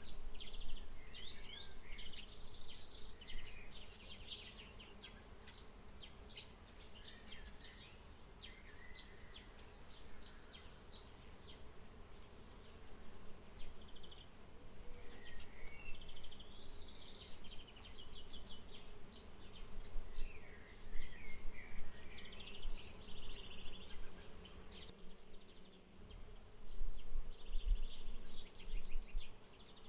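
Small songbirds chirping and trilling in bursts, over a steady faint buzz of insects. Low rumble from wind on the microphone is strongest near the end.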